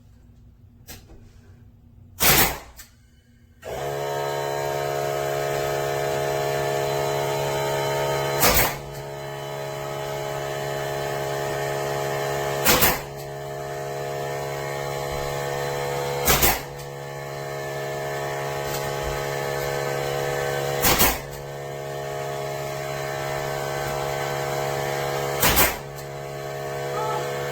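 A 16-gauge pneumatic finish nailer firing six times, a few seconds apart, each a sharp loud shot as it drives a finish nail. About four seconds in, an air compressor starts and runs with a steady hum under the shots.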